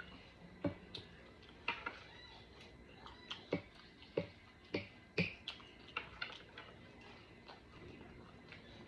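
Close-up mouth smacking and wet clicks of someone chewing food, irregular and sharp, about a dozen over several seconds, thinning out toward the end.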